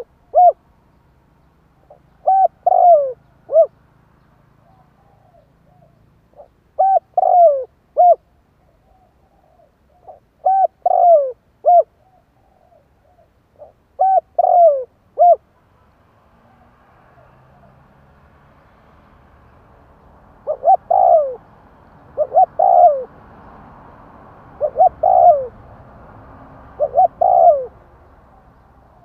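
Spotted dove cooing in short phrases of three or four falling notes, repeated about every four seconds. About halfway through, a steady hiss rises behind the calls and the phrases come closer together.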